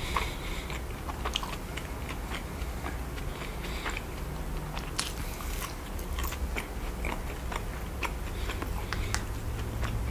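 A person chewing food, with many small mouth clicks scattered throughout.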